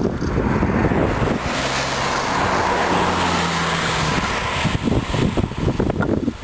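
A car passes by on the road, its tyre noise and a low engine hum coming in about a second and a half in and fading about five seconds in, with wind buffeting the microphone around it.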